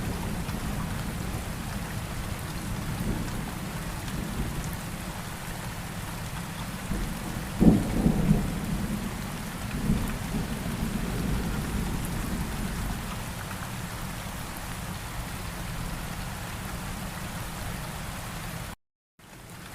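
Steady rain with low rumbles of thunder, the loudest about eight seconds in. The sound cuts out completely for a moment near the end.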